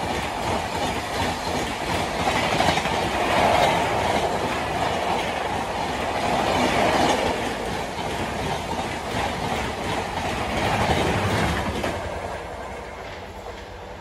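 Express passenger train passing close by at full speed: a continuous rush of wheel and air noise with the clickety-clack of wheels over rail joints, swelling about every four seconds. It fades in the last two seconds.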